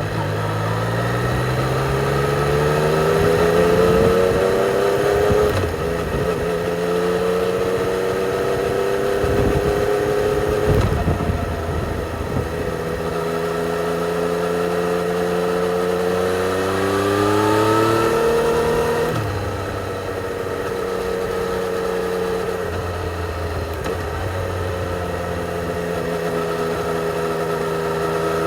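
2020 Yamaha XSR 900's three-cylinder engine through its stock exhaust, riding under way. It pulls up through the revs with sudden drops in pitch at the upshifts, about five and nineteen seconds in, and runs at steady revs in between and near the end.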